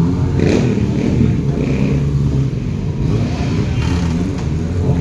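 A vehicle engine running steadily with a low, even hum, and a brief rise in noise about half a second in.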